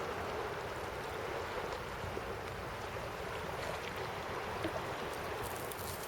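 Sea waves washing and lapping at the shore: a steady wash of water with small splashes and ticks scattered through it.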